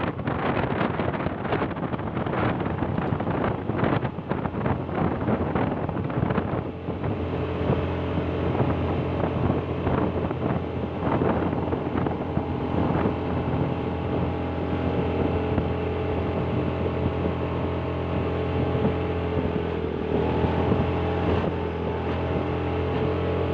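A motor vehicle's engine running steadily while on the move, with wind buffeting the microphone. Gusts of wind noise cover it for the first several seconds, then the steady engine hum comes through.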